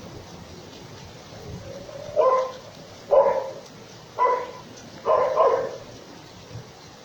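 A dog barking four times, about a second apart, the last a quick double bark, over the steady hiss of a rainstorm.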